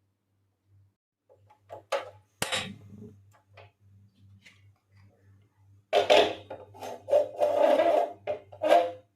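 Objects being handled: scattered light taps and knocks, then a busier stretch of clattering and rustling about six seconds in, over a faint pulsing low hum.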